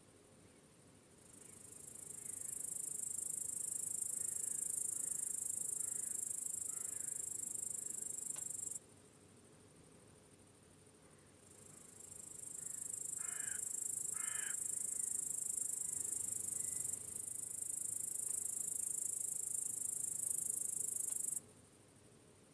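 High-pitched chorus of crickets chirping, in two long stretches that each swell in and then cut off suddenly, with quiet gaps between them. A few faint bird chirps come in the first stretch, and two short bird calls in the middle of the second.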